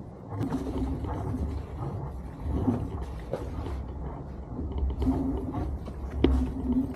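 Boat engine running with a low steady rumble, with a sharp knock about six seconds in.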